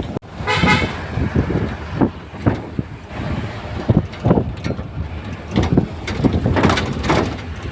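Vehicle driving over a rough road, with frequent knocks and rattles from the bumps and wind on the microphone.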